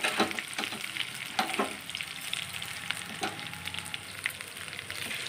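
Dried red chillies and whole spices (coriander seeds, cumin, mustard, fenugreek) sizzling as they fry in oil in a non-stick kadai, stirred with a metal spatula, with occasional sharp clicks.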